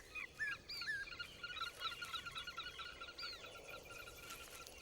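Birds calling: many short chirps, each rising and falling in pitch, repeated over a faint, steady natural background.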